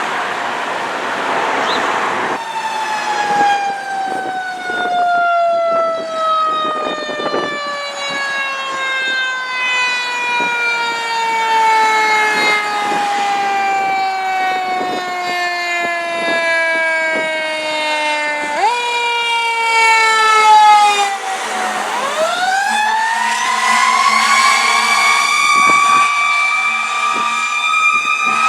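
Fire truck's mechanical siren coasting slowly down in pitch for about sixteen seconds, kicked up briefly, then dropping and winding back up to a steady high wail near the end.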